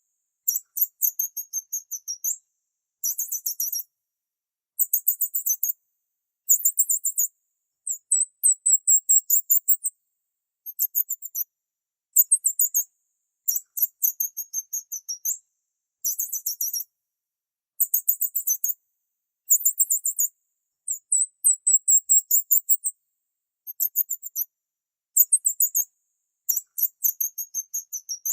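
A bird chirping in very high-pitched, rapid trilled phrases about a second long, repeated over and over with short silent gaps between.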